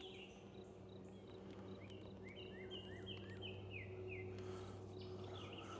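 A small bird calling a quick run of short, repeated chirps in the middle, over a faint steady low hum.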